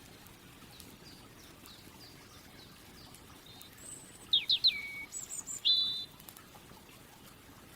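A songbird singing: soft, evenly spaced chip notes, then about four seconds in a loud short phrase of quick falling whistles, a high trill and a buzzy held note. A faint steady background hiss with a few sparse soft clicks lies under it.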